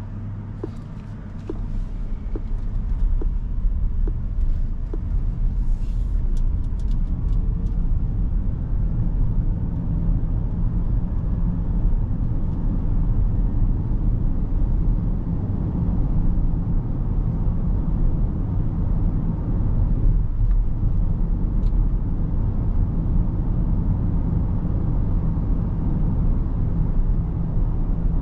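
Low, steady road and tyre rumble inside the cabin of a 2023 Rivian R1S Quad Motor electric SUV under way. It swells about a second and a half in, then holds. Light ticks come about twice a second in the first few seconds.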